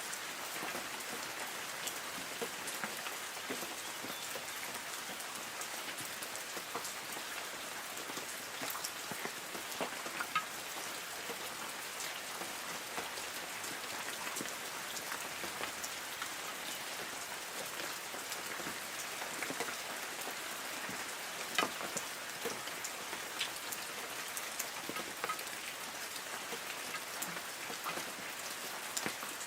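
Light rain falling on forest trees: a steady patter with many scattered individual drops, a few louder ones standing out.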